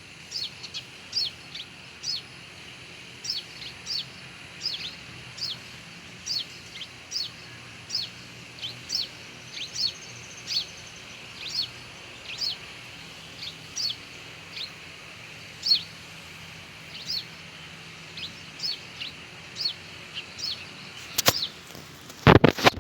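Sunbird calling: short, sharp, high chirps that sweep downward, repeated about one to two a second. Near the end there are a few loud knocks.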